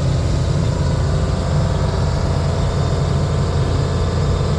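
Engine of a bucket-equipped digging machine running steadily, a low, even rumble.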